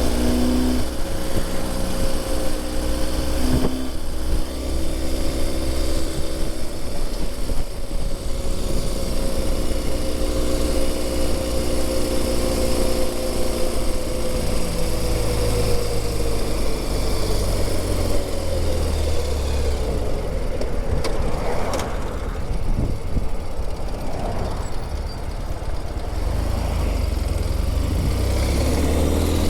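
Engine of a 2020 Ural Gear Up sidecar motorcycle, an air-cooled flat twin, running under way. A steady low rumble sits under a whine whose pitch slowly falls through the middle, as the bike slows, and climbs again near the end.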